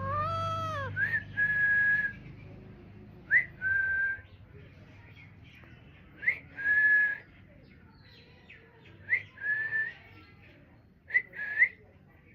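Pet parrot whistling: an arched note that rises and falls, then a quick upward swoop into a held, steady whistle, repeated about every three seconds, ending with two short rising whistles.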